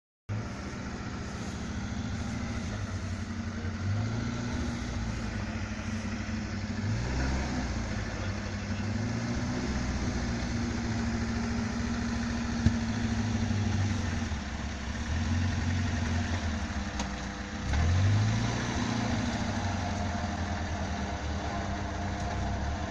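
Engine of a UAZ off-road vehicle running at low speed and being revved up and down several times, with the strongest rev about three-quarters of the way through. A single sharp click is heard about halfway.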